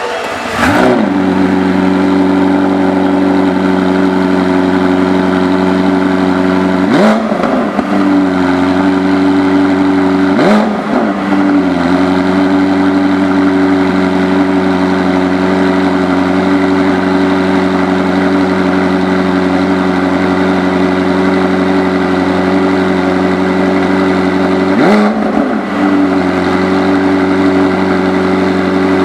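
McLaren 765LT's twin-turbo V8 idling steadily. Its throttle is blipped in quick revs about four times, each rising and falling back to idle.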